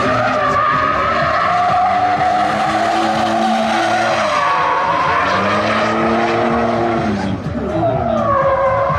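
Car tyres squealing and an engine revving, the pitch sweeping up and down in long arcs every second or two.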